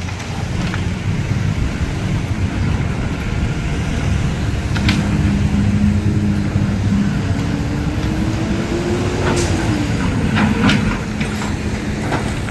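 Vehicle engines running close by in street traffic, a low steady rumble. About two thirds of the way through, one engine's note rises and then falls, and a few short sharp knocks sound over the rumble.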